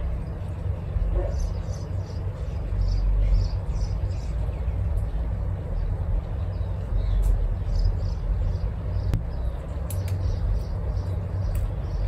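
Small birds chirping repeatedly, short high notes over a steady low rumble, with a few light clicks near the end.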